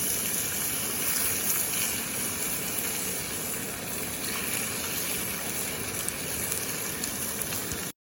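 Steady rush of falling water from a waterfall, which cuts off suddenly just before the end.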